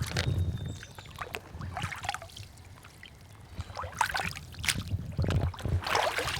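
Irregular footsteps, scuffs and knocks of people clambering across a log over a swollen creek, with the creek water running beneath. The steps come in uneven bursts, busiest in the second half.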